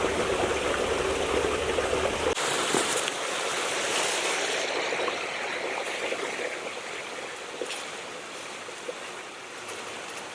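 Creek water running over rocks, a steady rushing that grows gradually fainter; a low rumble underneath drops away about two seconds in.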